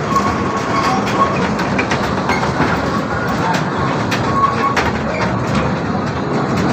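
Amusement-park ride-on train running along its track: a steady rumble with scattered wheel clicks.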